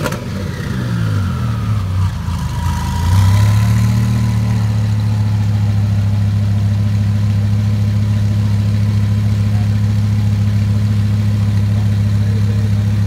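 Twin-turbocharged Lamborghini Huracán's V10 engine dropping back from a rev, its pitch falling over the first few seconds, then settling into a steady idle.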